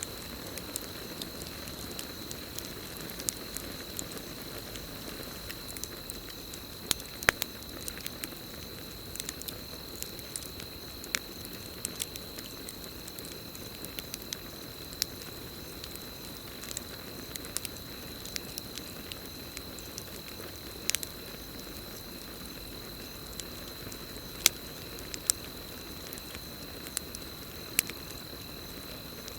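Campfire burning with irregular crackles and sharp pops, a few of them noticeably louder. Under it, crickets keep up a steady high-pitched trill.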